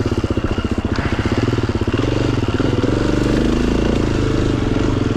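Dirt bike engine running under way on a trail, its revs rising about two seconds in and falling back near the end.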